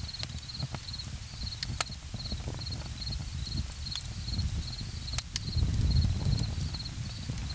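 Campfire crackling, with a few sharp pops, over a low rumble that swells for a moment past the middle. A cricket chirps steadily at a high pitch, about two chirps a second.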